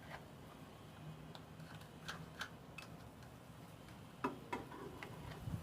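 A few light clicks and taps, with a pair about two seconds in and a louder pair about four seconds in, from small containers and utensils handled while mixing slime ingredients.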